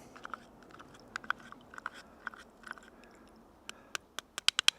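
A series of short, sharp clicks, scattered at first and coming quickly in the last second.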